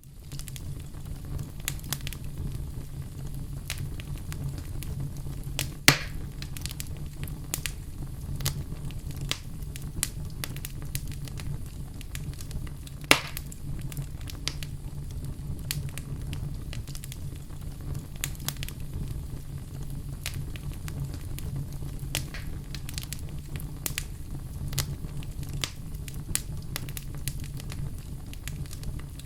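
Wood fire crackling in a fireplace: a steady low rumble with frequent small crackles and two louder pops, about 6 and 13 seconds in.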